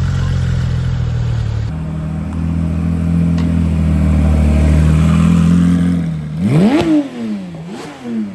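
Porsche engine running at a steady low note, then revved twice in quick blips near the end, its pitch rising sharply and dropping back each time; the first rev is the loudest.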